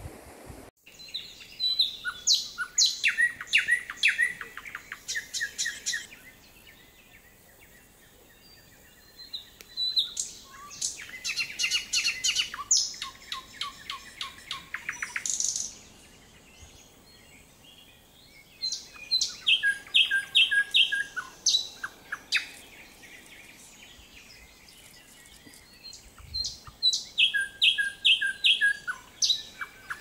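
A songbird singing in bouts of quick, repeated chirping notes. There are four bouts a few seconds long, with quiet gaps between them.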